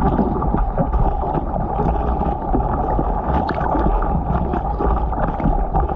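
Water sloshing and churning, with wind on the microphone, as a loud, steady, muffled rumble.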